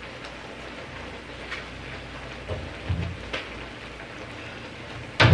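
Steady sizzle of mushrooms and vegetables frying in a pan, with a few soft knocks and one sharp knock near the end.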